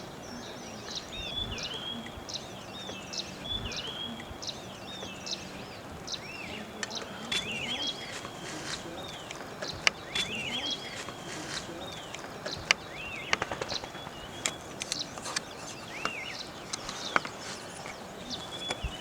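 Small birds calling over and over with short, high, hooked chirps, over a steady low background noise. A few sharp clicks come in during the second half.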